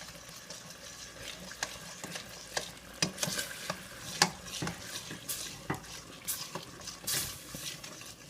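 Green curry paste and coconut milk frying in a pan over high heat, with a steady sizzle and a utensil scraping and clicking against the pan as it is stirred constantly to keep the paste from burning.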